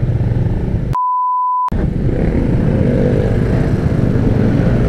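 Yamaha Vixion motorcycle's single-cylinder engine running at low speed in slow traffic, with road noise. About a second in, a steady bleep tone lasting under a second replaces all other sound.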